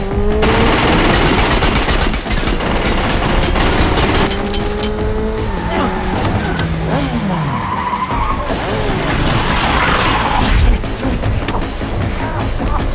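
A film car-chase soundtrack: car engines revving, tyres squealing and rapid gunfire with many sharp cracks and impacts, mixed over a music score.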